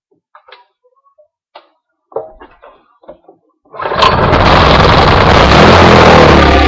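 A few light clicks and taps, then about four seconds in a Lifan 6.5 HP Honda-clone single-cylinder engine suddenly starts and runs very loud, close to the microphone.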